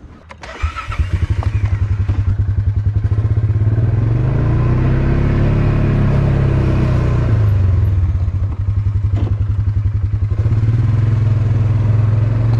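A vehicle engine starts about a second in after a few knocks, then runs with a pulsing, lumpy beat. It climbs in pitch in the middle, as if pulling away, drops back, and runs steadily.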